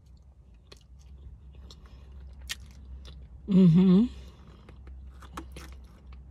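Chewing and small wet mouth clicks from eating a white-glazed mini donut with chocolate sprinkles, with a short hummed "mmm" about three and a half seconds in.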